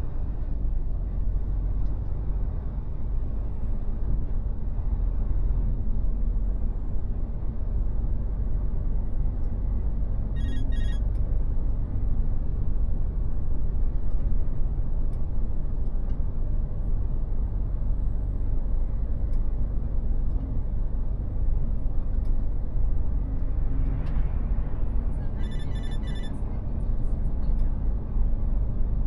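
Mercedes-Benz Actros truck driving, a steady low rumble of engine and road noise. Two short runs of rapid electronic beeps sound over it, one about ten seconds in and one near the end.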